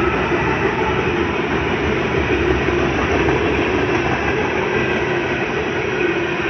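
Norfolk Southern manifest freight train passing close by: a loud, steady rolling noise of wheels on the rails, with a steady low tone running through it.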